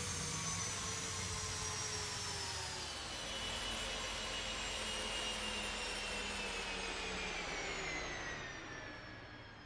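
Hyperion hydrogen hypercar running with a high electric whine over a rushing hiss. The whine slides slowly downward in pitch, and the sound fades away near the end as the car winds down or moves off.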